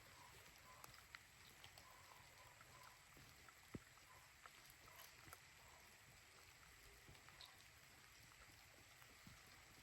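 Faint steady rain, with scattered drops ticking one at a time on a surface and one sharper drip about four seconds in.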